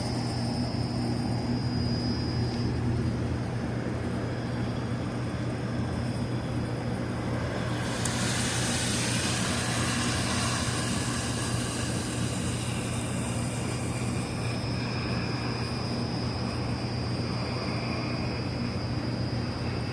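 Oxy-acetylene brazing torch flame hissing steadily over a constant low machinery hum, the hiss swelling louder for several seconds in the middle as the flame works on the copper line.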